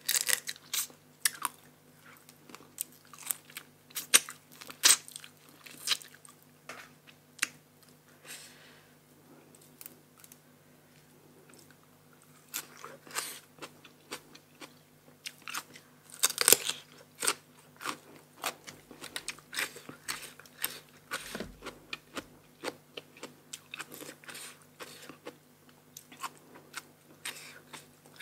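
A person biting and chewing crunchy food, here spicy blue-crab papaya salad with crisp raw vegetables, in a run of sharp crunches. The crunching eases to softer chewing about ten seconds in, then picks up again. A faint steady hum runs underneath.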